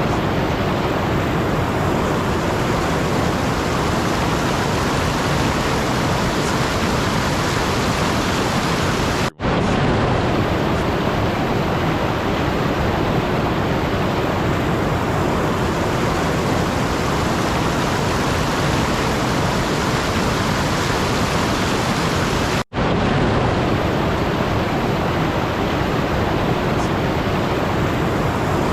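Steady, even rushing noise with no tone or rhythm, like an ambience track of rain or falling water. It cuts out for an instant twice, about thirteen seconds apart, as if looped.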